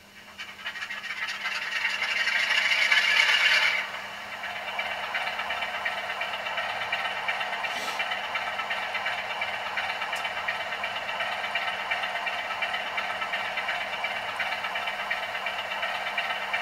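00 gauge model train running on the layout's track, wheels rattling steadily over the rails. The sound builds over the first few seconds, drops suddenly about four seconds in, then carries on evenly.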